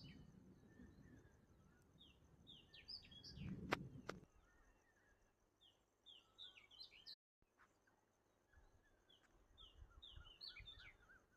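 Faint birdsong: a songbird repeats a short phrase of quick, falling, chirpy notes about every three to four seconds, over a faint steady high tone. There is a single soft click about a third of the way in.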